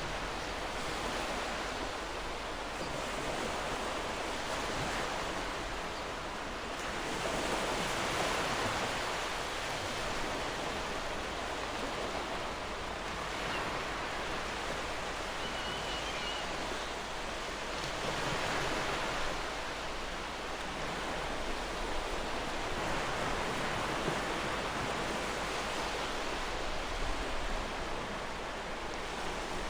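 Gentle ocean surf, a steady wash of breaking waves that swells and eases every five seconds or so.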